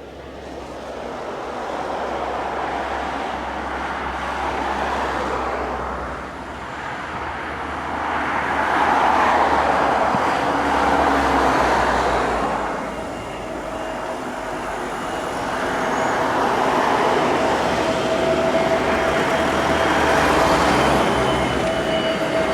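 Jet airliner, an Airbus A320neo, approaching to land. A rushing engine noise builds up and swells and eases several times, and a steady engine whine comes in about two-thirds of the way through.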